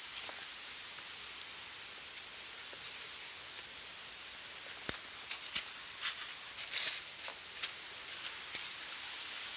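Footsteps crunching and scuffing on rough, stony ground, starting about five seconds in as a string of irregular sharp clicks, over a steady rushing hiss.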